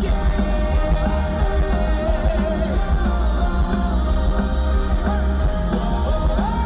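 Live rock band music played loudly through a concert PA, with a melodic line gliding up and down over a heavy bass.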